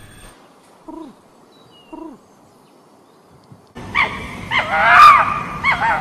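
Two short falling animal calls about a second apart, then a much louder run of high, wavering yelps and whines from a red fox, loudest about a second after they begin.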